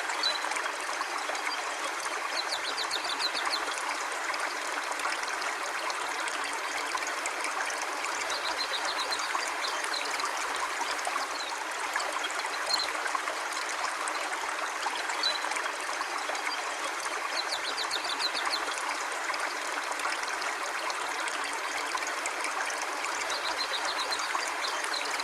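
River water flowing steadily, a continuous even rush with a light trickle.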